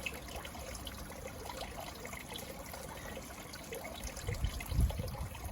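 Garden pond waterfall trickling and splashing steadily, with a low rumble about four seconds in.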